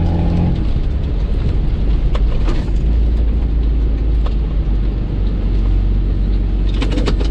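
Off-road vehicle's engine running under light load, heard from inside the cab as it drives slowly over a rough snowy track: a steady low rumble with a few faint knocks.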